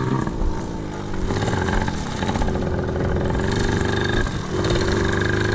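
Small pit bike engine revving up and pulling under load as it pushes a second bike with a snapped chain; the pitch climbs about a second in, then holds steady with a brief dip near the end.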